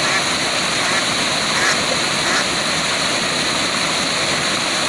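Waterfall rushing: a steady, even wash of falling water, with a few faint brief sounds over it.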